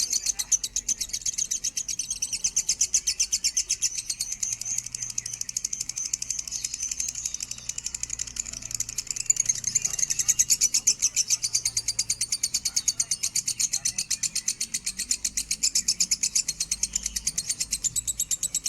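Lovebird singing a long, unbroken chattering song: a fast, even run of high, shrill notes at about eight to ten a second that never pauses.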